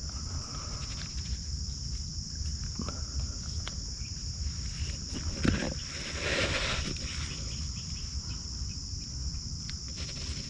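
A steady high-pitched insect chorus of crickets or similar insects, with a low rumble underneath. About five and a half seconds in there is a sharp knock, followed by a second or so of rustling.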